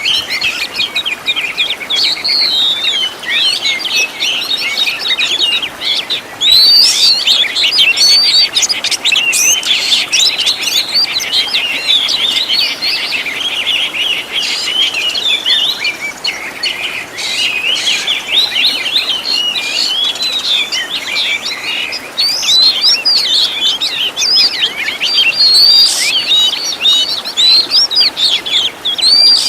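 Oriental magpie-robin (kacer) singing without a break: a fast, varied stream of chirps, trills and whistles, mixed with phrases copied from other birds' calls.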